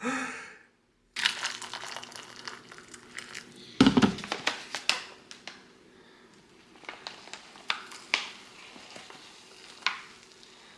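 Foil pouch of a freeze-dried meal crinkling and rustling as it is handled, with small clicks throughout and one louder knock about four seconds in.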